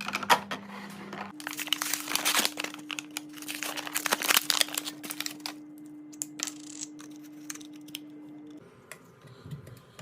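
Plastic packaging crinkling and rustling, with clicks and light knocks as items are handled, over a steady low hum. It is densest in the first half and thins out after about six seconds.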